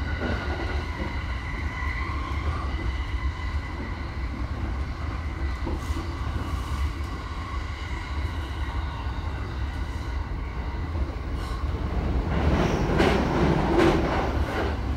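Cabin noise of an E217-series electric commuter train running on the line: a steady low rumble of wheels on rail with a faint steady whine. About twelve seconds in, a louder rattling lasts for about two seconds.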